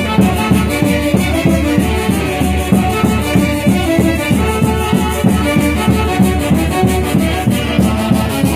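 Traditional Andean folk band music: melody instruments playing over a steady, even beat.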